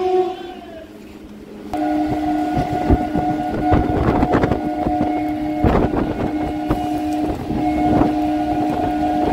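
Electric suburban local train (EMU) running along the track, heard from an open window with wind rushing past. After a quieter first two seconds, a steady humming drone cuts in sharply, with irregular clacks of the wheels over rail joints.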